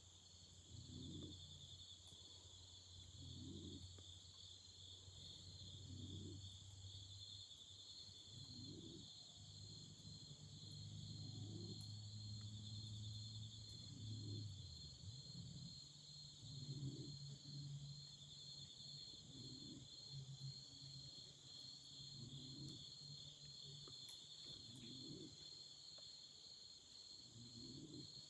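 Autumn crickets chirping without a break: two overlapping high trills, one of them pulsing rapidly. Under them a faint low sound swells about every two and a half seconds.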